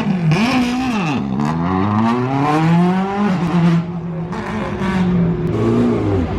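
Rally car engine blipping its revs up and down at the start line, then launching: the engine note climbs steadily as it pulls away, drops at a gear change about three seconds in, and carries on at high revs.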